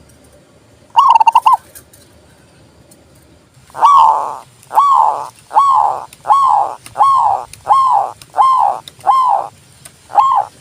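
Zebra dove (perkutut) cooing song: one short rolling trill about a second in, then from about a third of the way in a run of about nine rounded coos, each roughly two-thirds of a second apart.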